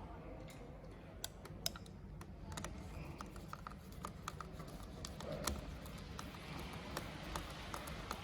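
Irregular light clicks and taps of small parts and tools being handled while a cover is fitted on a motorcycle handlebar's controls, a few clicks a second with some sharper ones.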